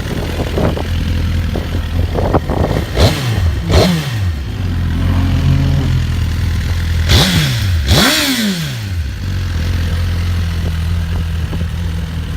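2014 Suzuki GSX-R1000's inline-four with a Yoshimura aftermarket exhaust idling, blipped twice about three seconds in and twice again about seven seconds in, each rev rising sharply and falling back to idle; the last blip is the biggest.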